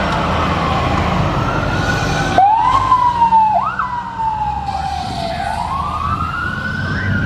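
Fire department emergency vehicle siren wailing, its pitch falling and rising slowly, with a sudden change about two and a half seconds in and a quick upward sweep soon after, over the low rumble of vehicle engines.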